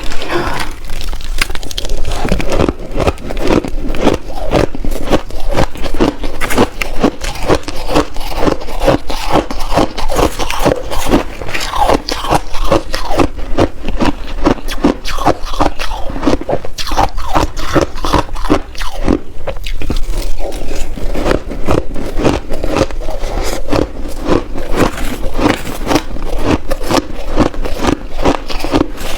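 Shaved ice crunched and chewed in big mouthfuls, a dense, unbroken run of sharp crunches.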